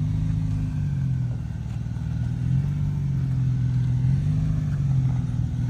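Off-road 4x4's engine running at low revs under load, its pitch slowly rising and falling with the throttle as the truck crawls over a hard trail obstacle.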